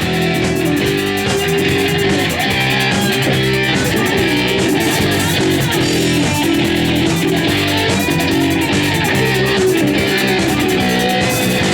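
Rock band playing an instrumental passage between sung lines, led by electric guitar over bass guitar. The music runs at a steady, loud level.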